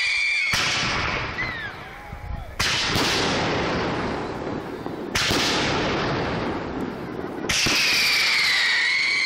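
Aerial firework shells bursting overhead: four heavy booms about two to two and a half seconds apart, each trailing off in a long rolling echo.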